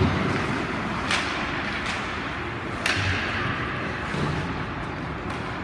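Ice hockey play in a rink: sharp clacks of stick on puck, the clearest about a second in and near the three-second mark, over a steady hiss of rink noise.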